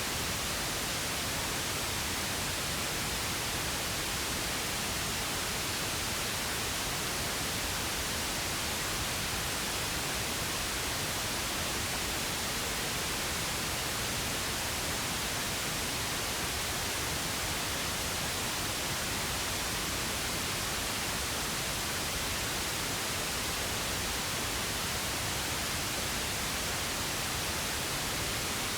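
Steady, unchanging pink noise: an even hiss spread across the whole range of pitch.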